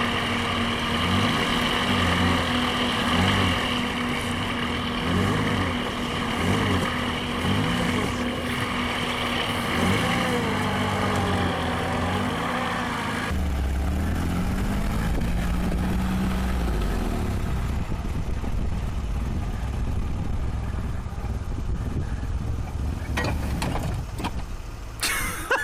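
Off-road truck engine running, its pitch rising and falling as it is revved. About halfway through, the sound changes abruptly to a lower, steadier engine note.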